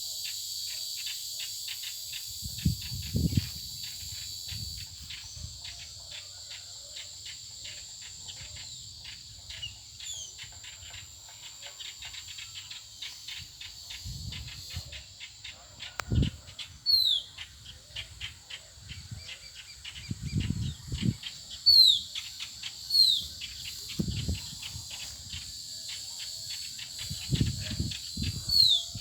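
Wild birds calling outdoors: short, sharply falling whistled notes repeated every few seconds, over a steady high-pitched insect drone and rapid fine ticking. Several low thuds come and go.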